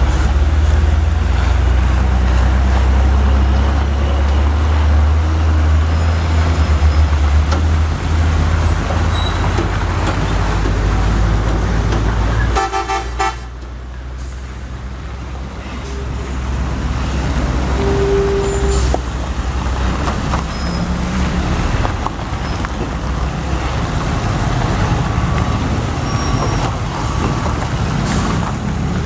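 Heavy truck engine running with a deep, steady rumble amid road traffic noise. About halfway a horn sounds briefly and the engine rumble drops off, leaving lighter traffic and road noise.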